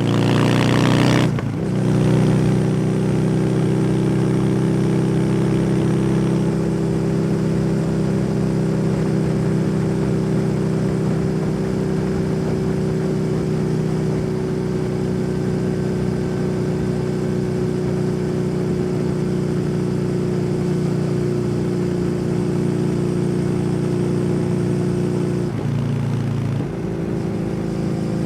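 Kawasaki W800 air-cooled parallel-twin with an SC Project exhaust, riding under load. The engine revs up in the first second and drops at a gear change about a second and a half in. It then holds a steady cruising note, dips briefly near the end as the throttle comes off, and picks up again.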